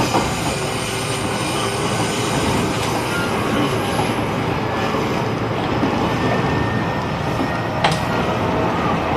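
JR East E129 series electric train running between stations, heard inside its motor car: steady wheel-on-rail noise with the traction motors and Toshiba-era Toyo IGBT inverter whine. A single sharp click comes near the end.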